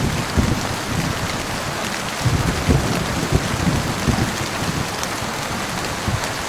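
Heavy rain falling steadily, with a low thunder rumble underneath that swells about two seconds in.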